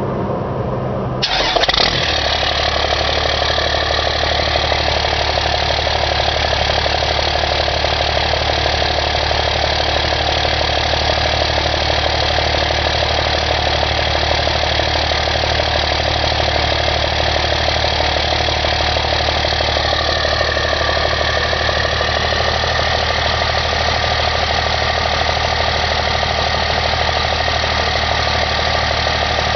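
1992 Dodge Cummins 5.9 L inline-six turbo diesel with a 4-inch straight-pipe exhaust cranking and catching about a second in, then idling steadily and loud.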